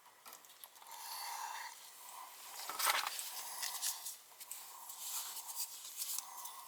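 Hands working furnace wiring with small tools: rustling and scattered small clicks, with one sharp, loud click about three seconds in.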